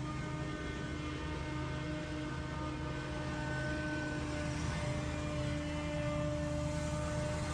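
Gas engine of leaf-cleanup power equipment running steadily at constant speed, a continuous drone with a low hum and a steady whine.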